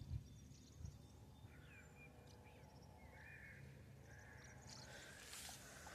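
Near silence with faint bird calls: a few short chirps and whistles between about one and four seconds in.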